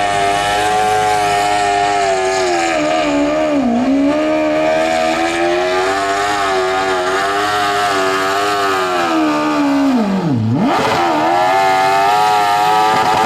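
Modified pulling lawn tractor's engine running at high revs under load as it drags the weight sled. The pitch sags briefly about three and a half seconds in, then drops sharply and climbs back about ten seconds in, as the engine bogs and recovers.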